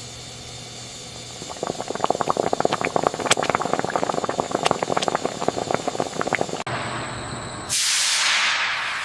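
Thick jam boiling in a cooking kettle, with a few seconds of dense, irregular popping and spluttering bubbles. Near the end a loud hiss of steam starts suddenly and slowly fades.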